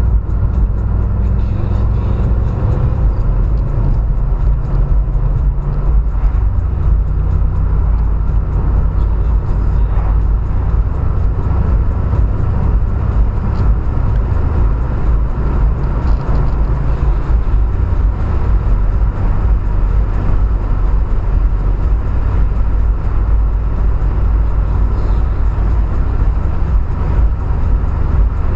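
Car engine running with a steady low rumble that stays even throughout, without any clear revving.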